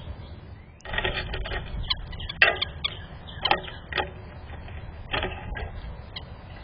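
Irregular close taps and clicks, starting about a second in and loudest near the middle, over a low rumble: a bird moving about on the trellis right by the camera's microphone.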